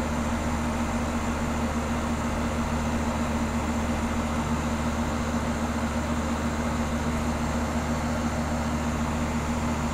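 Outdoor heat pump unit running steadily: an even compressor and fan hum with a strong low steady tone.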